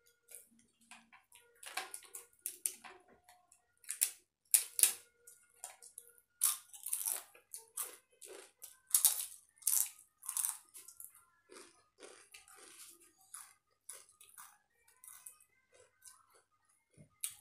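Crisp papad being bitten and chewed: a run of irregular sharp crunches, loudest between about four and eleven seconds in.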